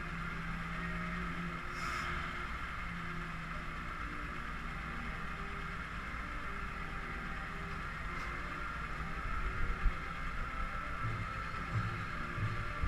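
Vehicle engines idling steadily, a low hum under a constant outdoor hiss. A single thump comes a little before the end, and then a low rhythmic pulse starts, about three beats every two seconds.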